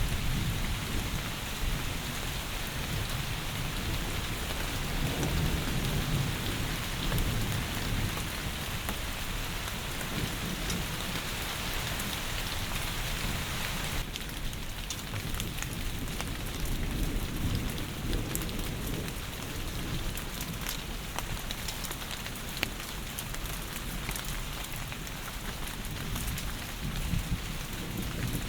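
Heavy rain falling steadily, with a low rumble of thunder through the first half. About halfway the sound shifts and scattered single drop ticks stand out more against the rain.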